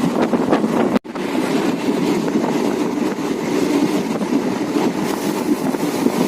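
Passenger train running, heard from on board: a steady rumble of wheels on rails with rushing noise, broken once about a second in by a very brief drop to silence.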